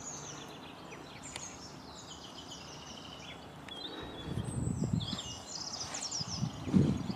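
Small birds singing: repeated high chirps and trills throughout. From about four seconds in, a louder low rumbling with uneven thuds comes in, strongest near the end.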